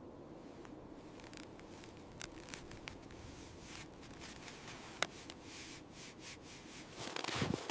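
Faint rubbing and scraping with scattered light clicks and one sharper click about five seconds in, then louder rustling with low thuds near the end.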